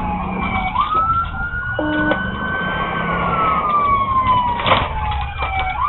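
Police car siren on wail: the tone climbs quickly about a second in, holds high, then falls slowly and begins to climb again at the end, over steady road and engine noise.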